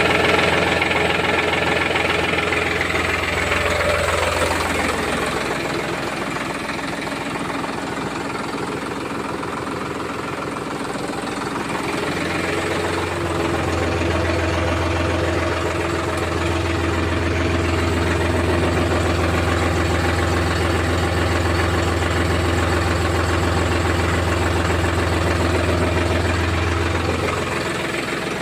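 Tractor diesel engine idling steadily. Its low hum weakens for several seconds, then comes back stronger about twelve seconds in.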